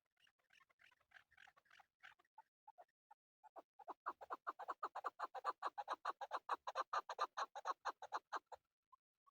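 Male chukar partridge calling: a few soft, scattered clucks, then about halfway through a fast, even run of loud clucking notes, about six or seven a second, building in strength and stopping abruptly shortly before the end.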